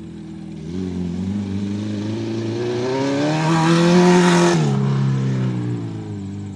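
Acura RSX's four-cylinder engine accelerating on a dirt track: the revs climb steadily for about three seconds, then drop sharply about four and a half seconds in.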